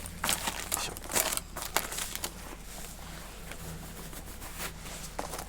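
Packaging and parts being handled: rustling and crinkling with scattered light clicks and knocks, busiest in the first two seconds and then sparser.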